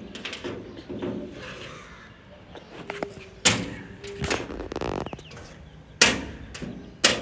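Three sharp bangs, about three and a half, six and seven seconds in, with lighter knocks in between.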